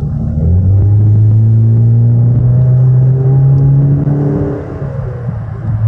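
Turbocharged four-cylinder of a 2018 Camaro 2.0T with a cold air intake and muffler delete, heard from inside the cabin as the car accelerates: a loud engine drone rising slowly in pitch, dipping briefly near the end and then picking up again.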